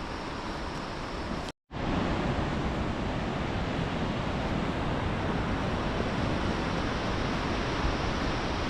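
Steady rushing of fast water through a rocky gorge. It breaks off for a split second about a second and a half in, then continues slightly louder.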